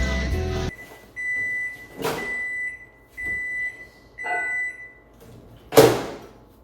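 Microwave oven beeping about four times, a steady tone roughly a second apart, as its 10-second cycle ends. Then a short sharp clunk, the loudest sound here, as the door is opened.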